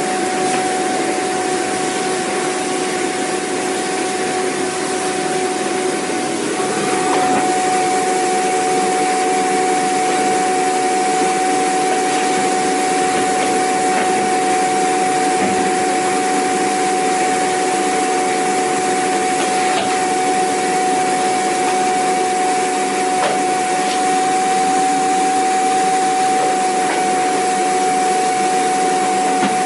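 Vacuum cleaner running steadily: an even rushing hiss with a high, steady motor whine over it. The tone shifts slightly and grows a little louder about six to seven seconds in.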